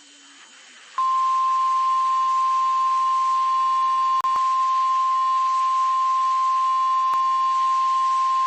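NOAA Weather Radio warning alarm tone: a single steady tone of about 1050 Hz, received over the radio. It switches on about a second in, after faint receiver hiss, and drops out for an instant near the middle. It signals that a warning message, here a severe thunderstorm warning, is about to be broadcast.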